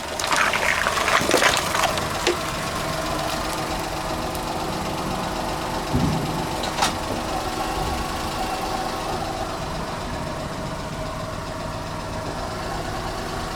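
A car's engine running at low speed as a tyre rolls over and crushes an object, with a loud crackling crunch in the first two seconds. The engine then idles steadily, with a low thump about six seconds in and a sharp click soon after.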